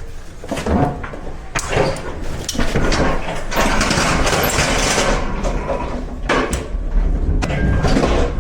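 Knocks and clatter of freight being handled at a truck, with a longer rushing, scraping noise about halfway through, over a low steady engine hum.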